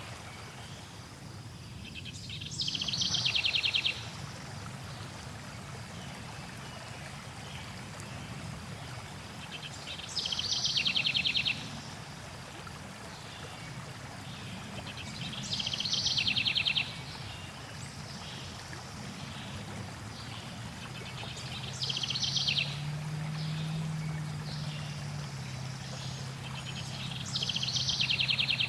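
A songbird repeating a short, fast trill about every six seconds, five times in all, over the steady rush of flowing water.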